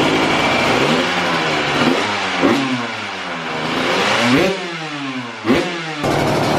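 Pit bike engine idling through its stock exhaust, revved sharply three times about two and a half, four and a half and five and a half seconds in, falling back to idle after each blip.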